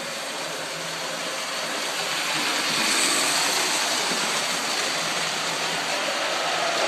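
Model train running along its track, a steady rushing rattle that grows louder about three seconds in and then eases slightly.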